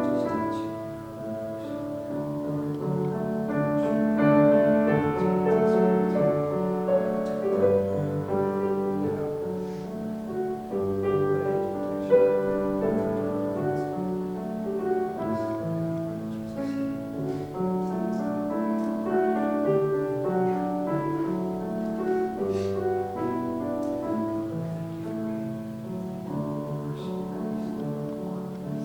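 Soft piano music with slow, sustained chords, played as quiet background during a time of prayer.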